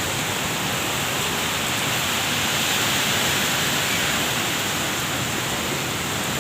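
Heavy, stormy rain pouring steadily, a dense even hiss with no let-up.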